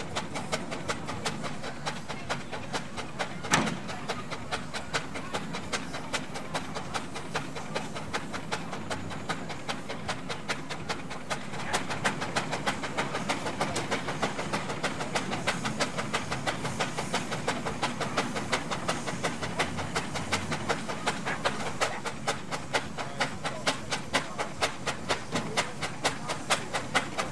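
Steam engine exhaust beating in a fast, even rhythm as it works, getting a little louder about halfway through and sharper near the end. A single sharp knock comes a few seconds in.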